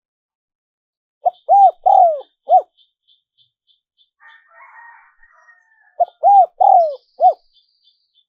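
Spotted dove cooing: two phrases of four arching coos each, the first starting about a second in and the second near the end. A faint, rapid high ticking runs between the phrases.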